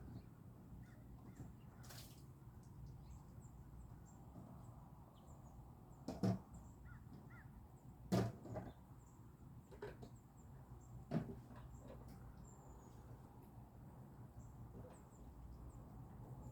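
Quiet background with three short, sharp knocks, about six, eight and eleven seconds in, and a few fainter clicks between them.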